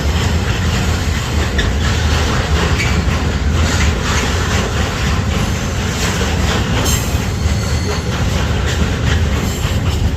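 Intermodal freight train rolling past at close range: a steady, loud, heavy rumble of wagon wheels with clacking over the rail joints.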